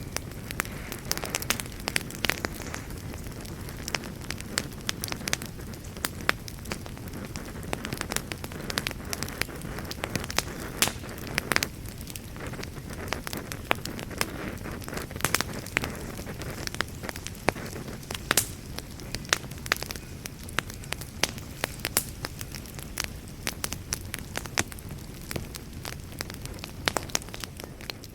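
Wood fire burning in a fireplace: a steady low rumble and hiss of flames with frequent sharp, irregular crackles and pops.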